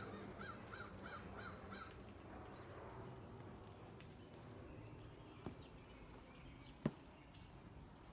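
A bird calls outdoors in a quick run of five short rising-and-falling notes in the first two seconds. Two sharp clicks come later.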